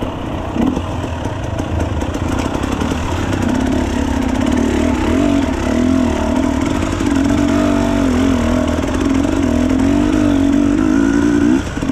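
Dirt bike engine running under way, its pitch wavering up and down as the throttle changes.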